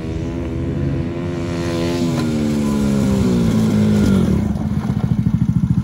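Side-by-side UTV engine coming closer and growing louder, its pitch dropping as it slows from about two seconds in, then settling into a steady pulsing idle near the end.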